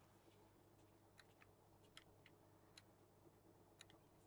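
Near silence: room tone with a low hum and a few faint, scattered light ticks.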